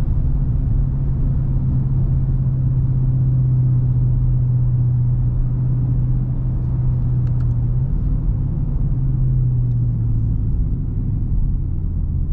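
Dodge Charger R/T's 5.7-litre HEMI V8 running steadily while driving, a low steady drone over road rumble. The engine note drops slightly about eight seconds in and again a couple of seconds later.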